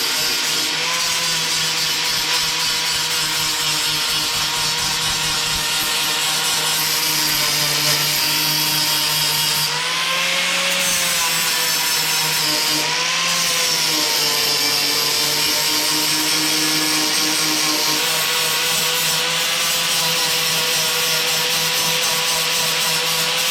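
Angle grinder grinding rust off a steel truck fender: a steady motor whine over a coarse rasp of the disc on metal, the whine wavering briefly twice near the middle.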